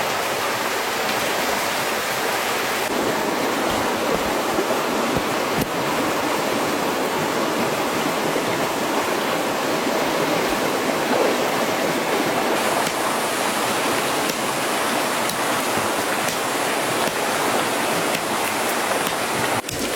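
Steady rushing of water, an even noise with no pitch to it.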